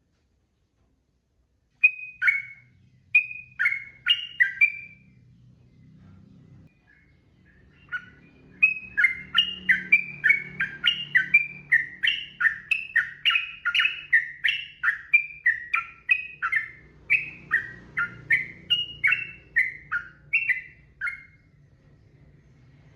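Yellow-vented bulbul (trucukan) singing. A short burst of bubbly notes is followed by a pause, then a long, fast run of repeated falling notes, about two to three a second, which ends near the end.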